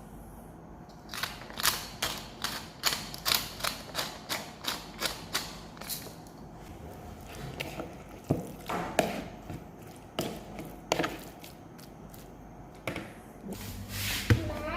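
Knife chopping on a wooden cutting board: a quick, even run of strokes, about three or four a second, for several seconds, then slower, scattered single knocks.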